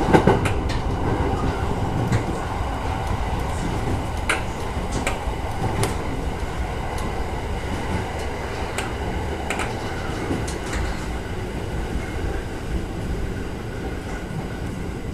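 JR 209 series electric train running, heard from inside at the front of the car: a steady low rumble with scattered sharp clicks from the wheels on the track, getting gradually quieter.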